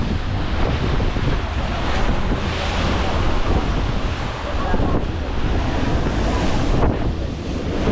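Wind buffeting the microphone over heavy waves washing against the side of a ferry, a dense rumbling rush with no clear breaks.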